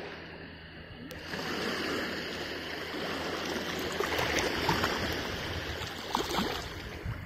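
Seawater washing and lapping among shoreline rocks, a rushing swell that builds about a second in and carries on.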